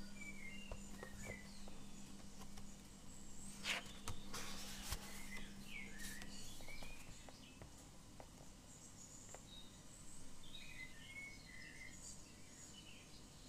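Small birds chirping faintly in short, scattered calls. About four seconds in there is a brief rustle of paper as a sketchbook page is turned, and a low steady hum stops about six seconds in.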